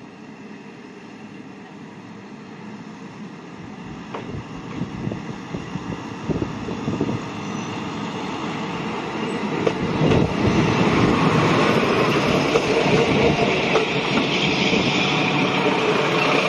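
Shimabara Railway diesel railcar pulling into the station, growing steadily louder as it approaches. Wheels click over the rail joints from about four seconds in. Engine and wheel noise are loudest in the last several seconds as the car runs close by.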